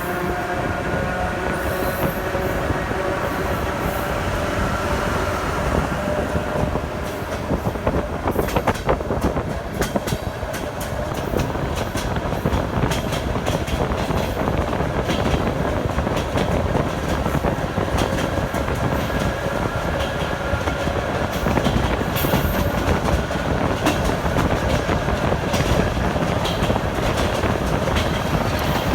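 ER9E electric train running: a steady rumble with the wheels clacking irregularly over rail joints, the clacks thickest about eight to eleven seconds in, and a steady whine of several tones that is clearest near the start.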